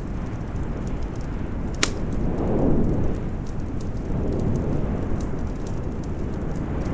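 Snowstorm wind as a steady low rush, with a wood fire crackling over it in scattered small pops. One sharper pop comes about two seconds in, and a gust swells just after.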